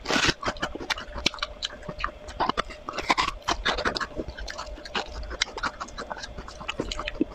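A crunchy bite into a frost-covered frozen cucumber, loudest right at the start, followed by close-up crisp crunching and chewing with many small crackles.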